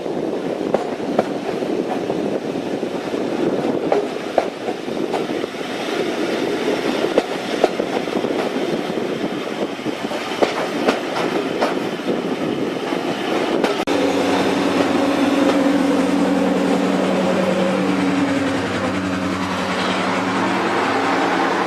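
A train running on the rails, with a rumble and scattered sharp clicks of wheels over rail joints. About two-thirds through, a diesel locomotive's engine drone comes in, steady and pitched, and holds to the end.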